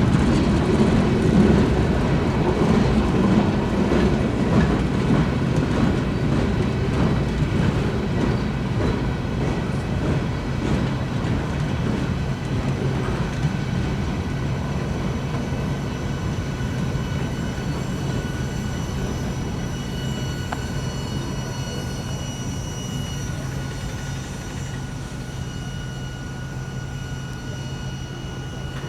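Freight cars of a CSX manifest train rolling past, their wheels clacking and rumbling on the rails, slowly getting quieter. Faint high steady wheel squeal comes in about halfway through.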